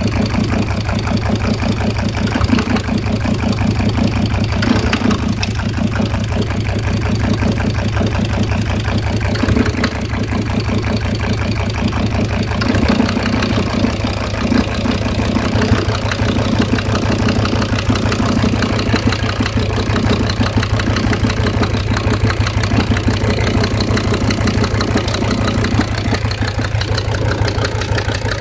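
SsangYong Musso engine idling steadily with an intermittent knock, which the owner takes for a knock in the piston group.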